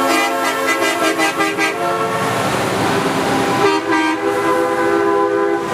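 Semi-truck haulers sounding their air horns, several horn tones at once: a run of short pulsed blasts in the first two seconds, then a long held blast starting a little under four seconds in.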